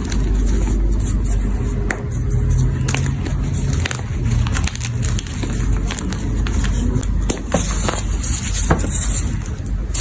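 Blocks of gym chalk being crushed and crumbled, giving many sharp crunches and crackles over a steady low rumble.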